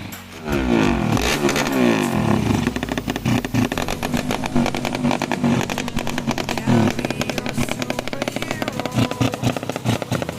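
Tuned Yamaha Jupiter 130 cc single-cylinder four-stroke motorcycle engine, revved up and down in the first couple of seconds, then running at a fast, uneven idle with irregular louder pulses.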